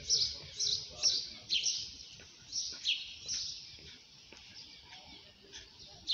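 Birds chirping: short high calls that sweep downward, repeated a few times a second, thinning out after about three seconds to a few faint scattered calls.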